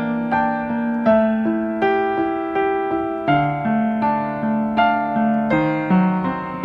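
Background piano music: a gentle melody of sustained notes struck about twice a second, with chords underneath.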